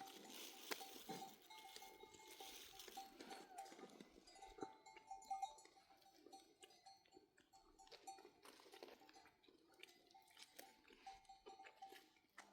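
Small neck bells on a flock of sheep and goats, clinking faintly and irregularly as the animals move.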